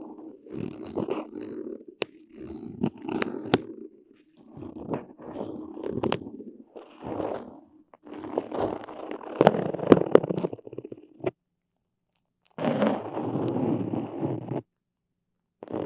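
Close-miked sticky ASMR sounds: a tacky surface being pressed and pulled apart in short bursts, full of small crackles and clicks. The sound cuts off abruptly to dead silence twice in the second half.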